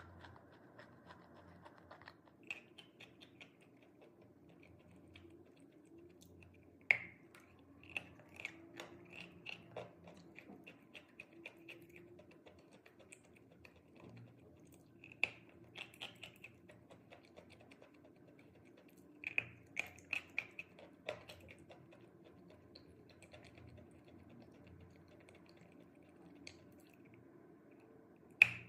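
A person biting and chewing chalk: clusters of sharp crunches, the loudest about seven seconds in and right at the end, with quieter chewing between.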